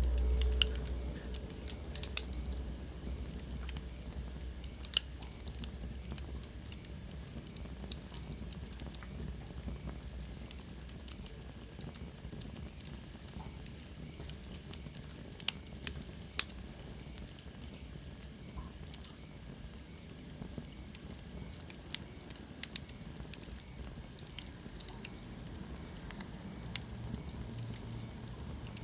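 Wood fire burning in a fireplace: a steady low hiss with irregular sharp crackles and pops. A faint high whistle slowly falls in pitch about halfway through.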